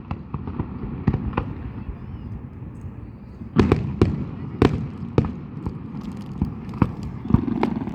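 Fireworks going off: an irregular run of sharp bangs and pops over a low rumble, with the loudest bangs bunched together about halfway through.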